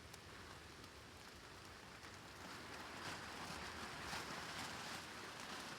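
Rain falling on plastic sheeting overhead, with wind, swelling louder for about three seconds from halfway through.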